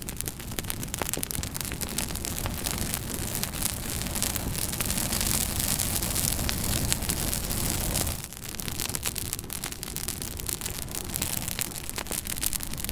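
Fireplace fire burning, with dense crackling over a steady rushing hiss. The rush swells for a few seconds and drops back suddenly about eight seconds in.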